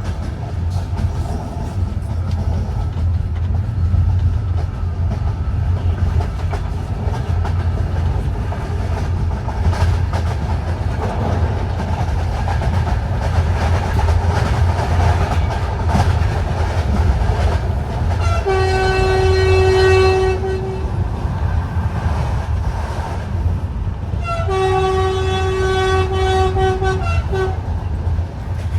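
Passenger train running with a steady low rumble and rail clatter. About two-thirds of the way through come two long horn blasts, a few seconds apart, each held for two to three seconds on one steady pitch.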